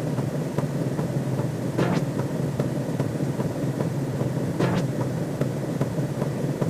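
Looping synthesized sci-fi sound effect: a steady low rumble with light ticks a few times a second and a brief swoosh about every three seconds.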